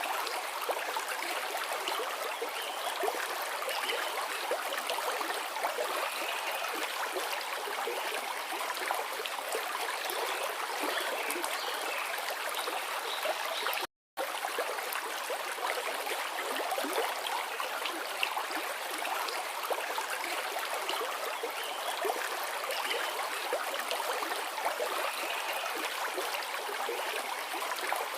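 A forest river flowing: a steady rush and babble of water, broken once about halfway through by a split-second silent gap.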